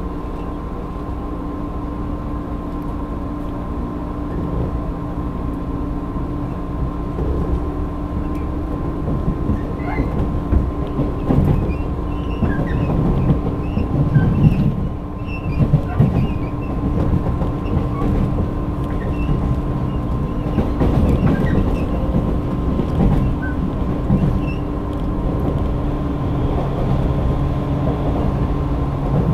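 Running sound of a 185-series electric train heard from inside the carriage: a steady rumble of wheels and motors with a thin steady hum. It grows louder over the first dozen seconds, and uneven knocks and rattles come from the wheels in the middle.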